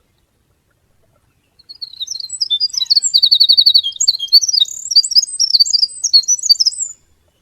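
A small songbird singing one long, varied song of rapid trills and chirps. It begins about a second and a half in and stops near the end.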